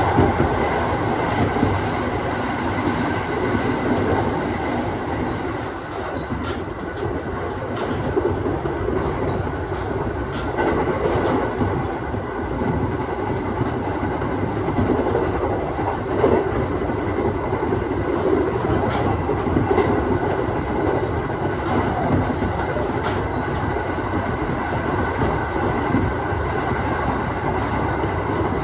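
Aoimori Railway 701 series electric train running along the line, heard from inside the car: a steady rumble and hum with occasional clicks as the wheels pass over rail joints.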